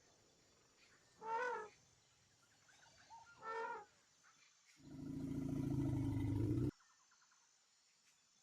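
Animal calls: two short pitched calls about two seconds apart, then a longer, louder, deeper call that swells for about two seconds and stops abruptly.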